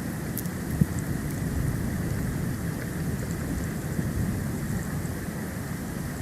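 Storm wind buffeting the nest-cam microphone, a steady low rumbling noise, with one sharp knock a little under a second in.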